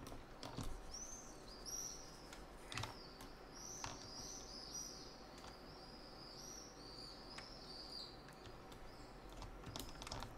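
Faint bird chirping: many short, high rising-and-falling chirps repeating throughout, with a few soft clicks among them.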